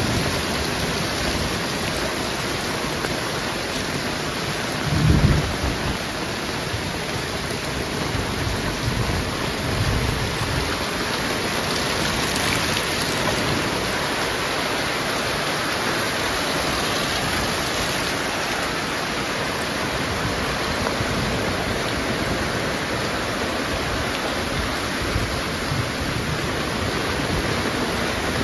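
Heavy rain falling steadily in a thunderstorm, an even hiss throughout. A short low rumble swells up about five seconds in, with a fainter one around ten seconds.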